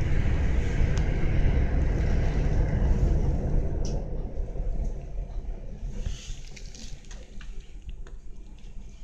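Low rumble of trains on the rails, heard from inside a carriage. It is loudest over the first four seconds, while another train passes on the next track, then eases off.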